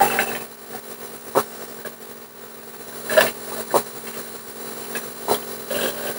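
A steady machine hum, like a small motor running, with a few short clicks or knocks over it, the clearest about three seconds in.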